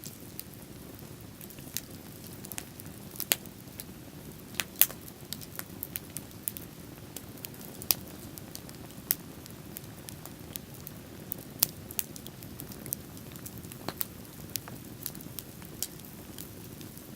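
Wood bonfire crackling, with irregular sharp pops and snaps over a steady low rushing sound.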